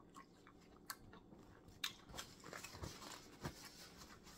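Faint close-up chewing and crunching of crawfish-boil food, a scatter of short crackly clicks that come thickest in the middle.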